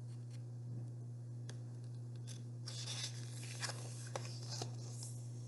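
Paper rustling as a book page is handled and turned, in two short stretches around the middle, with a few light clicks, over a steady low hum.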